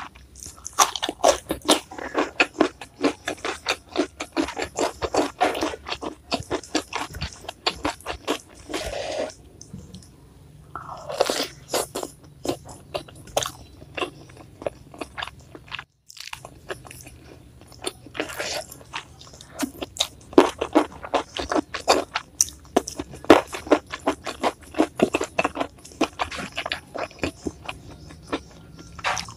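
Close-miked crunching and chewing of crisp raw vegetables in dense, rapid runs of crackly bites, with a couple of quieter pauses between mouthfuls.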